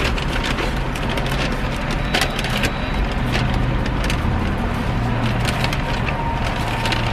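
Vehicle idling with a low steady hum, overlaid by irregular crackling and rustling clicks.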